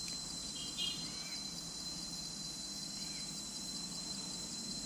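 Steady high chirring of crickets and other insects, with a few faint bird chirps about a second in and again around three seconds.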